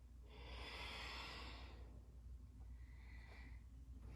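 Faint breathing of someone doing a cat and cow round on a yoga mat: one long breath, then a shorter, fainter one about three seconds in.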